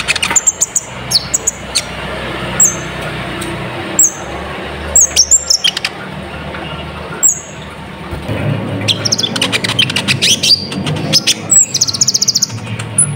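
Kolibri ninja (a sunbird) singing: sharp, high, separate chirps, many dropping quickly in pitch, becoming a faster run of calls in the second half and ending in a rapid buzzy trill.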